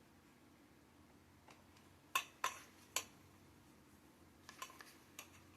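Light clinks and knocks of mini-greenhouse frame parts (poles, racks and fittings) being handled during assembly. There are three sharp knocks about two to three seconds in and a few fainter clicks near the end.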